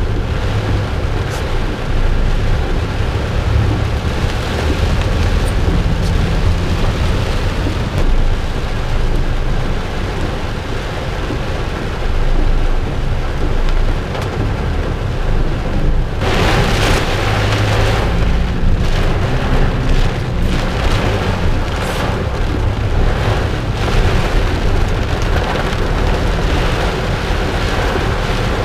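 Heavy thunderstorm downpour, steady rain hiss over a deep rumble. About sixteen seconds in the rain surges louder and hissier for a couple of seconds.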